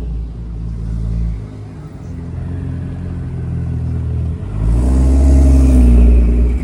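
A sports car's engine running with a deep rumble, which swells much louder about two-thirds of the way in as the car comes close.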